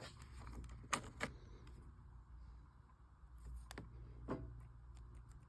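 A few faint clicks and knocks over a low steady hum, with no engine cranking or running.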